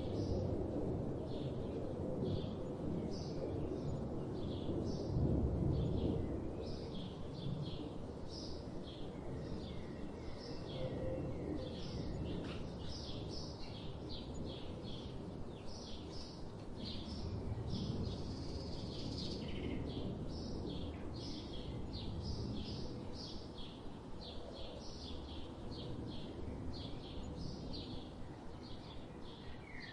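Songbirds chirping: a quick run of short, high chirps, about two a second, over a steady low background rumble that is louder in the first few seconds.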